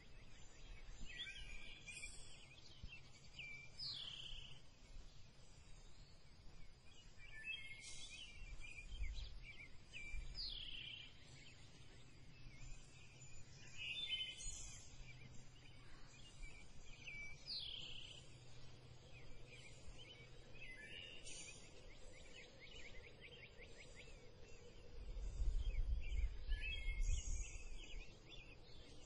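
Outdoor wildlife ambience: a bird calls again and again, a short chirping phrase every few seconds, over a faint steady hiss and low hum. A low rumble about three-quarters of the way in is the loudest part.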